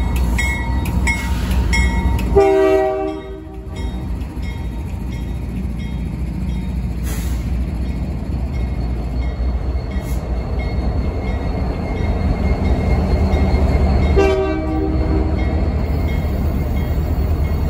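Union Pacific freight train rolling past close by with a steady, loud low rumble: its diesel locomotives first, then double-stack container well cars. A multi-note train horn sounds a blast of about a second, two and a half seconds in, and a shorter one about fourteen seconds in.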